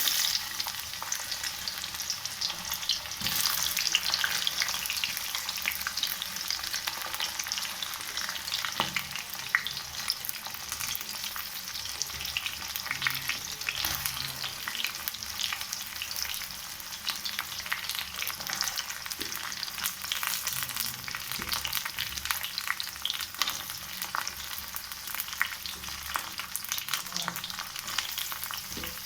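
Food sizzling and crackling in hot oil in a pan, starting suddenly at the beginning as it goes into the oil, then frying steadily with dense pops.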